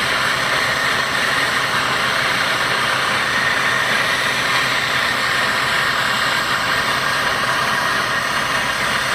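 Brazing torch flame hissing steadily, heating a copper pipe joint.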